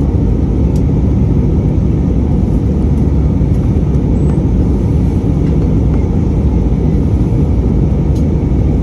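Steady cabin noise inside an Airbus A319 airliner on final descent: a dense, even, low rumble of engines and airflow.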